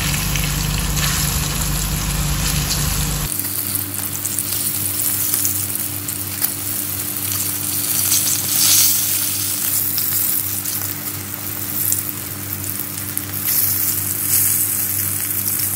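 Firm tofu cubes frying in shallow hot oil in a wok, a steady sizzle as they brown, while being turned with metal tongs. A low hum under the sizzle stops about three seconds in.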